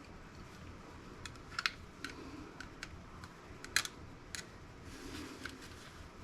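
Irregular small, sharp clicks and taps of a screwdriver and tiny metal parts being handled while unscrewing small Torx screws from laptop parts, the loudest click about halfway through.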